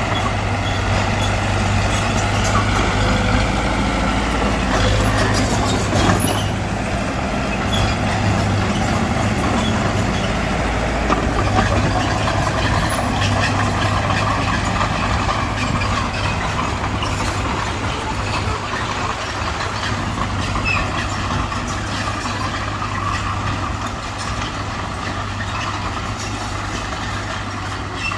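Heavy diesel engine of earthmoving machinery running steadily, its pitch shifting slightly now and then, with scattered short clanks and knocks.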